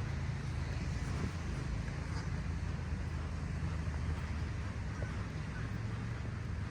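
Steady low engine drone with wind buffeting the microphone.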